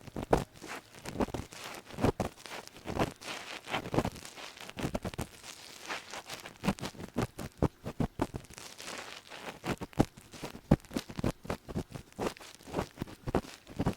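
Ear pick scraping and rubbing inside an ear, miked very close: irregular crackling scratches and rustles, several a second, with no pauses.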